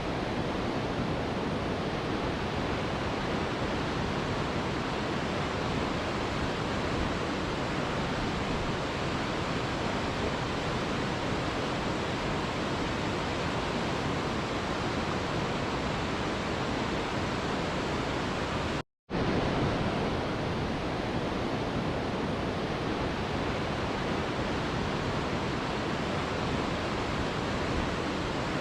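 Mountain river water rushing, a steady even rush. It cuts out to silence for a split second about two-thirds of the way through, then resumes unchanged.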